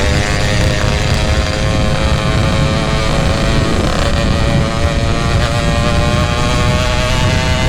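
Two-stroke Yamaha RX-King motorcycle engine running loud and steady through a GRT18 K26 aftermarket racing exhaust, its pitch creeping slowly upward.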